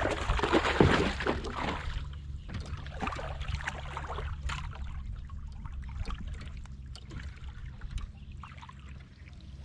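Water splashing hard for about two seconds as a hooked bass is fought beside a fishing kayak, then lighter splashes and scattered small knocks.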